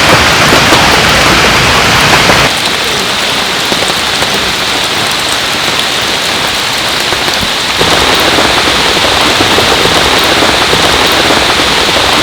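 Heavy rain pouring steadily, with no break. About two and a half seconds in it abruptly turns quieter and thinner, then near eight seconds becomes fuller and louder again.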